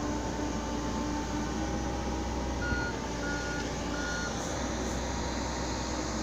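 A Komatsu PC70-8 excavator's diesel engine runs steadily, and a warning alarm beeps three short times around the middle.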